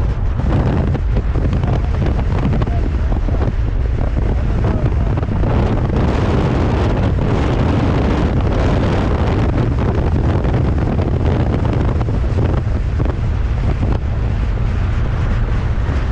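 Wind buffeting the microphone in a moving open-top 1275cc MG Midget, over the steady drone of its engine and road noise.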